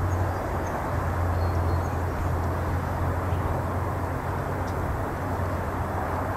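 Steady low rumble with an even hiss: outdoor background noise with no distinct events.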